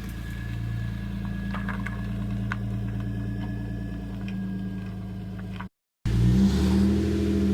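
A car engine idles steadily. After an abrupt cut about six seconds in, a louder car engine revs.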